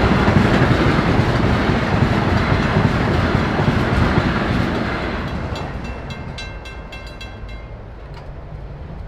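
Long Island Rail Road train passing over a road crossing, its rumble and wheel clatter dying away over the first half. As it fades, the crossing's warning bell is heard dinging rapidly, then stops near the end.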